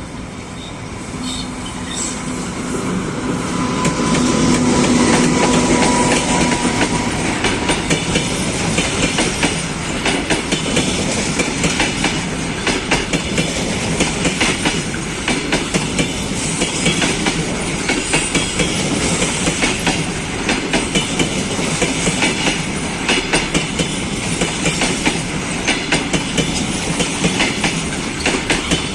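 An EP20 dual-system electric locomotive passes with a steady hum, loudest about five seconds in. Then the coaches of an arriving passenger train roll by, their wheels clicking rhythmically over the rail joints.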